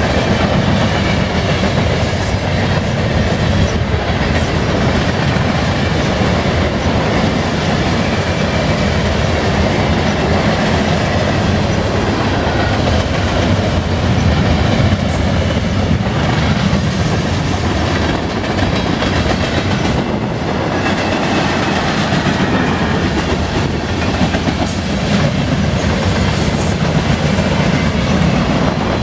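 Freight train cars rolling past on steel wheels: a steady rumble with the clickety-clack of wheels passing over rail joints.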